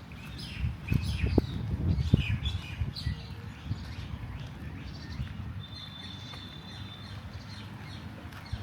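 Small birds chirping in many short calls, with one held high whistle past the middle. A low rumble with a few thuds runs underneath and is loudest in the first couple of seconds.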